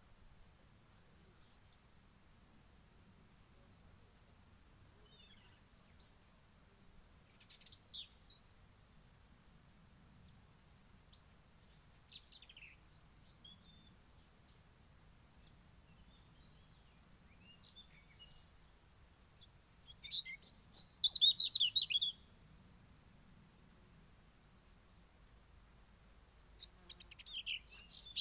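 Small songbirds calling: scattered short, high chirps and whistles, with a fast chattering run about twenty seconds in and another near the end.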